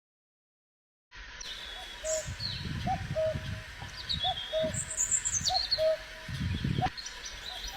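Several birds calling after about a second of silence: a low call repeated every half second or so, mixed with higher chirps and trills, over an uneven low rumble.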